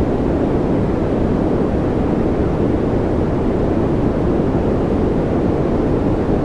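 A steady, unchanging noise track of the kind played for focus and calm, a deep rushing hiss weighted toward the low end rather than a bright white hiss.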